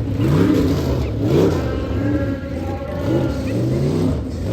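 Truck engine revving up and down over and over, its pitch rising and falling about once a second.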